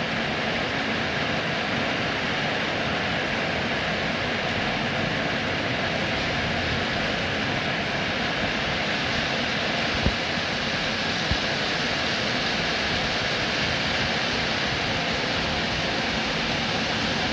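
Steady heavy rain, an even hiss with no pauses, with two brief low knocks about ten and eleven seconds in.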